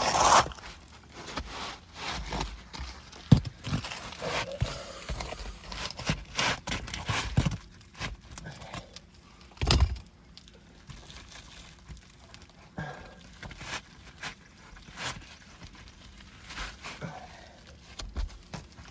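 Scraping and rustling of an asphalt roof shingle being slid and worked into place under the course above, with irregular clicks and knocks and one heavier thump about ten seconds in.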